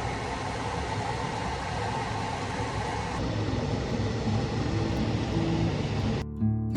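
Vacuum cleaner running with a steady rushing noise and a faint motor whine. Soft background music comes in underneath about halfway through.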